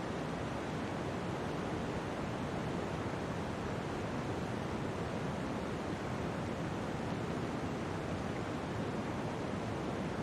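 Steady, even rushing noise that does not change, with no speech or music.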